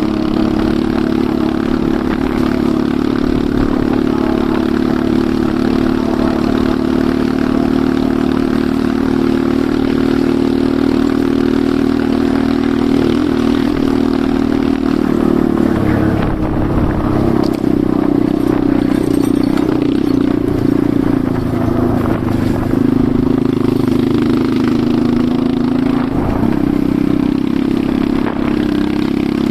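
Enduro motorcycle engine running continuously while riding, steady at first and then rising and falling in pitch from about halfway through, with some clatter.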